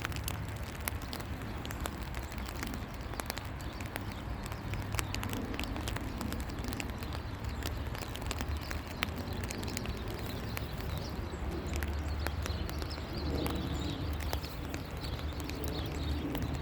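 Rain falling, with many sharp drops tapping close by over a steady low rumble.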